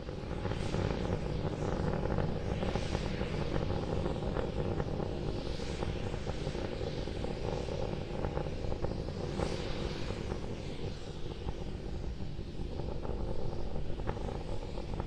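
Starship SN10's Raptor rocket engines heard from afar during ascent: a steady low rumble with crackling that swells and fades every few seconds.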